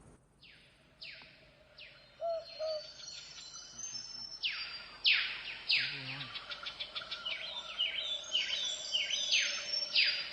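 Wild birds calling in a chorus of repeated short, downward-sweeping calls, with a quick trill among them. The calls are sparse at first and grow denser and louder from about halfway through.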